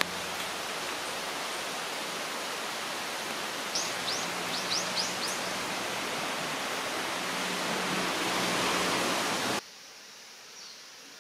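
A steady outdoor hiss, with a small bird giving a quick run of about five high, downward-sweeping chirps around four to five seconds in. The hiss cuts off suddenly near the end, leaving a much quieter background with one faint chirp.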